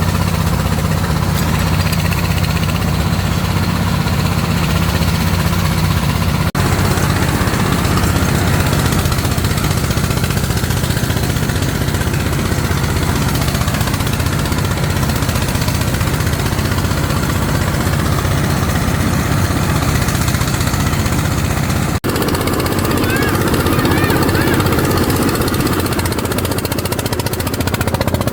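A small engine running steadily with a strong low hum, broken by two brief dropouts about a third of the way in and near the three-quarter mark.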